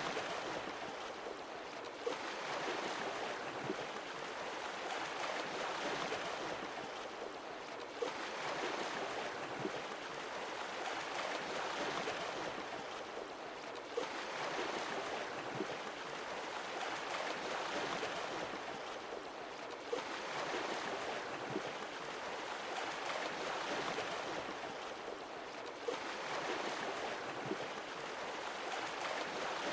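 Sea waves washing in and drawing back in a steady, regular swell, each surge about six seconds long. A short sharp click comes at the turn of each swell, about every six seconds, where the recording repeats.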